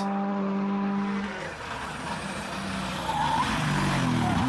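Rally car engine holding a steady note, which drops away about a second and a half in, leaving tyre and road noise. Near the end it revs again, its pitch dipping and then climbing.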